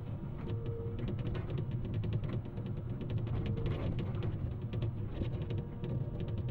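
Excavator's diesel engine running under load, a steady low rumble with a faint whine that comes and goes, and rapid clicking and crackling over it.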